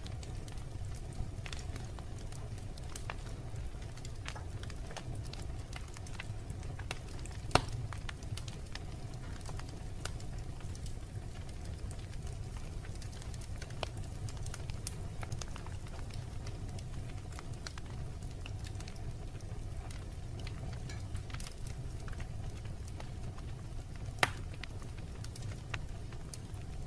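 Wood fire burning in a fireplace, crackling with scattered small snaps over a steady low rumble of the flames. Two much louder sharp pops come about a third of the way in and near the end.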